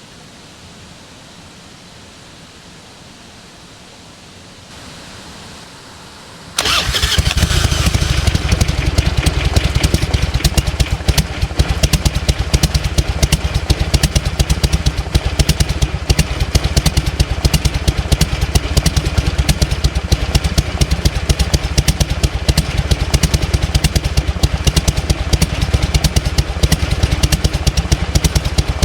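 1998 Harley-Davidson Fat Boy's air-cooled Evolution V-twin: quiet for about six seconds, then the engine starts with a sudden burst and settles into a steady idle with the rapid uneven 'potato-potato' beat.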